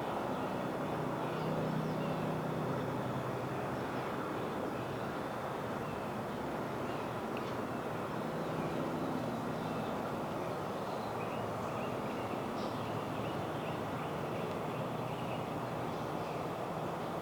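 Steady distant engine drone, with faint short bird chirps scattered over it.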